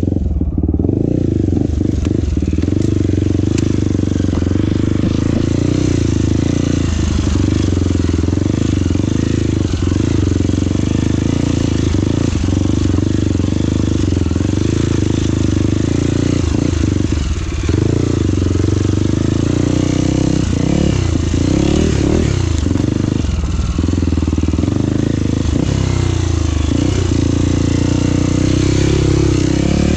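Trail motorcycle engine running steadily while riding, its pitch dipping and rising a few times in the second half as the throttle changes.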